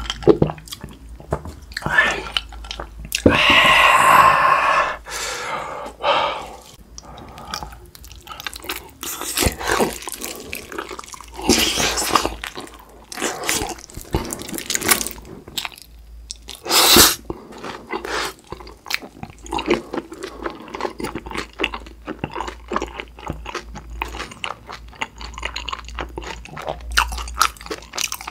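Close-miked eating sounds: biting into and chewing a yangnyeom-sauced fried chicken drumstick, with wet, sticky crackles and smacks. A loud rustle runs for about two seconds near the start.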